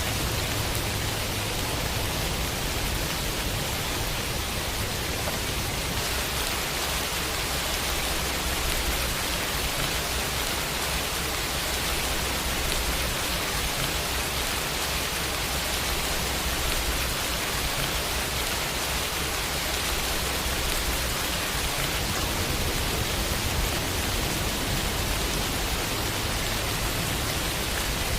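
Steady summer rain falling on a window, an even hiss with no breaks.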